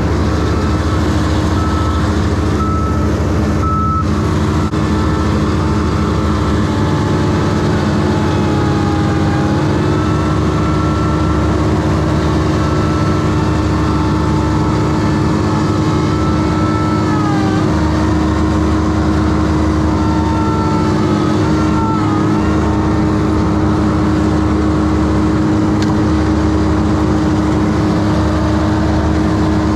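A heavy engine running steadily at high speed, its pitch sagging briefly a few times as if taking load.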